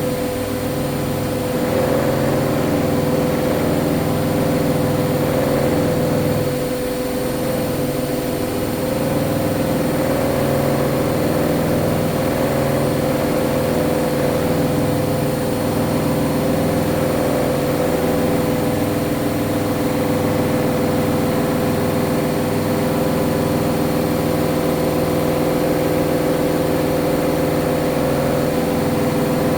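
Hoover front-loading washing machine spinning at high speed in its final 1400 rpm spin, a steady motor whine over a low hum.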